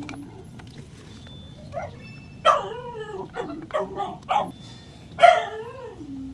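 An animal calling: about six short pitched cries in quick succession, the loudest near the end.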